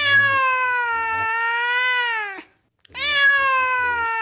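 A cat meowing in long, drawn-out calls. A meow of about two and a half seconds is followed after a short pause by a second one just as long.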